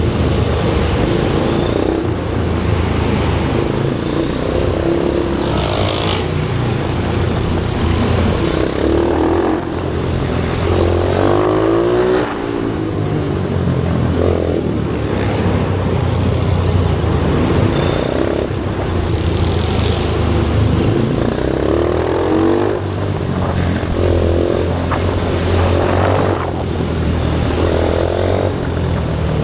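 Pit bike engines running on a track, revving up and down as bikes pass, with engine notes rising and falling every few seconds over a steady drone.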